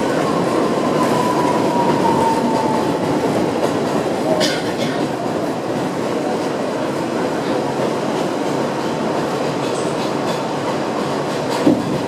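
Ride noise inside an R62A subway car running along the track: a steady rumble of wheels on rail. A faint high tone falls slightly over the first few seconds, a sharp click comes about four seconds in, and a short, louder knock comes near the end.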